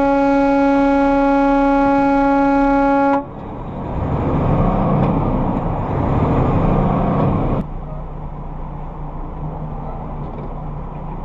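A vehicle horn held on one steady tone for about three seconds, cutting off sharply. It is followed by loud engine and road noise that swells for a few seconds, then drops to a steadier, quieter drone about two-thirds of the way in.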